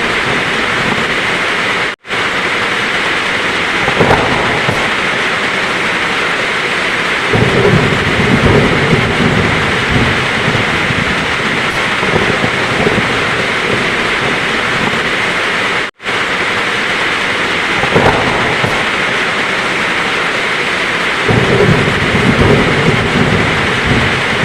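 Heavy rain falling steadily, with low rolls of thunder swelling up twice. The recording drops out for a split second twice, where the loop is joined.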